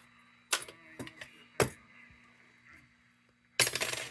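Small metal heater parts clinking as they are handled: three separate clinks, then a short jangling rattle near the end.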